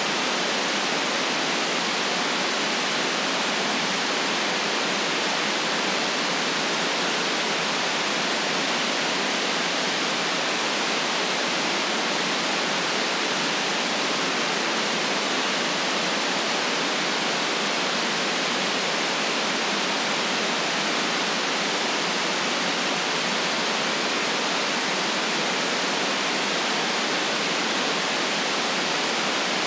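Steady synthetic white noise, an even hiss that does not change, cut off below about 150 Hz and above about 9 kHz.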